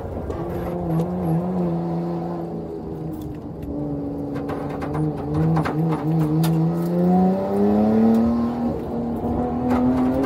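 Nissan Skyline R33 GT-R's RB26DETT twin-turbo straight-six heard from inside the cabin. The revs drop at the start, hang low with the throttle wavering through the middle, then climb steadily as it accelerates over the last few seconds. A few clicks and knocks come through mid-way.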